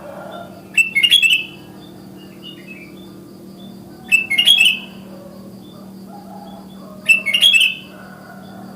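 Sooty-headed bulbuls (kutilang) calling: three loud half-second bursts of chirping notes about three seconds apart, with fainter chirps in between. A steady low hum and a thin high tone run underneath.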